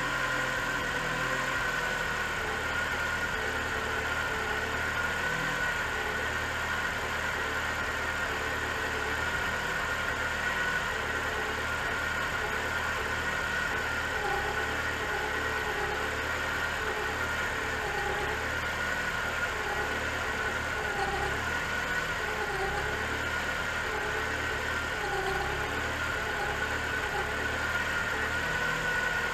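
Mitsubishi Evo 9's rebuilt 2.4-litre stroked 4G63 engine idling, with a steady high whine and a wavering tone that keeps rising and falling over the idle: the timing belt noise that the owner is chasing after the rebuild.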